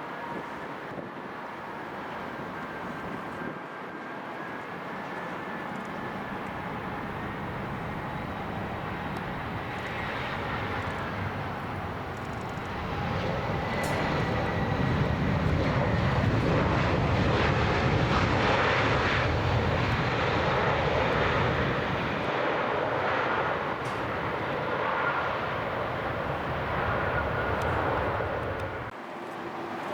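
Jet airliner's engines passing at close range, a steady roar with a faint high whine that grows louder to a peak about halfway through and then eases off. The sound drops suddenly just before the end.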